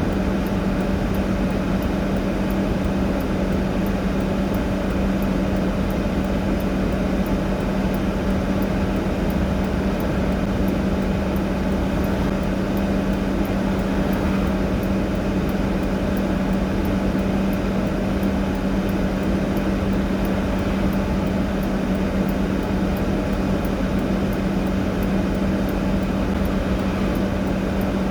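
A motor runs steadily, making an unbroken drone with a constant low hum, and faint, evenly spaced high ticks run under it.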